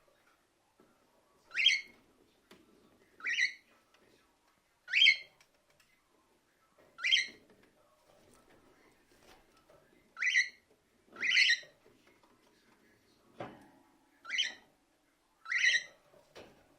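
Cockatiel giving eight short, rising chirps, one to two seconds apart. A single sharp knock falls between two of the later chirps, with faint scuffling underneath.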